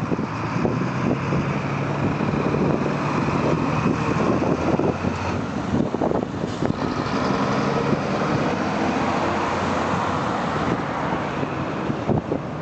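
Road traffic: motor vehicle engines running close by, a steady engine hum with road noise.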